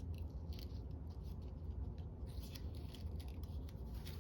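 Faint rustling and scratching of paper being handled and fitted into place, a scatter of short soft scrapes over a steady low hum.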